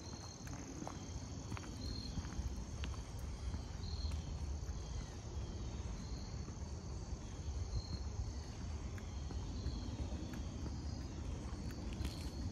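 Insects calling in woodland: a steady high-pitched trill with a short, higher chirp repeating about once a second, over a low rumble.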